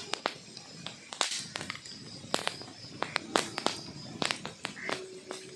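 Wood fire crackling: irregular sharp pops and snaps from burning logs, several a second, over a low hiss.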